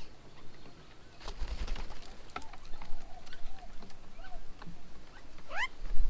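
Birds calling: a short whistled note repeated evenly about twice a second, with scattered sharp ticks and a rising call near the end.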